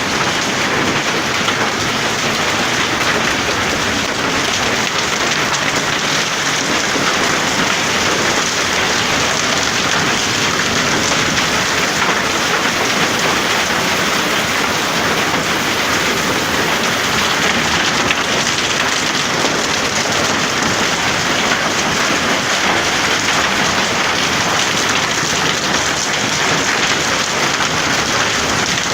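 Hailstorm: hail and heavy rain falling hard and steadily, a dense, unbroken mass of tiny hits.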